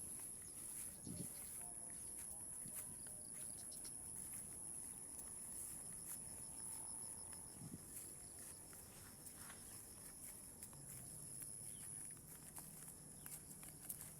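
Faint outdoor ambience: a steady high-pitched whine, with scattered small clicks and a few soft knocks.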